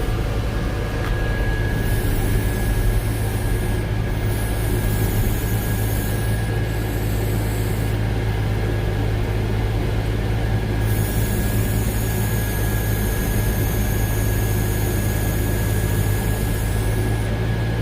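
Tractor diesel engine running steadily under load, heard from the cab, with a thin steady whine over the low drone.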